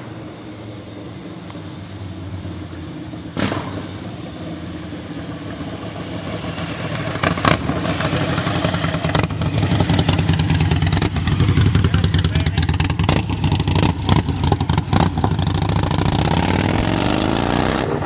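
Supercharged Harley-Davidson Street Glide 103 V-twin with an aftermarket exhaust header, running. It gets much louder around six to eight seconds in and stays loud, with a few sharp clicks along the way.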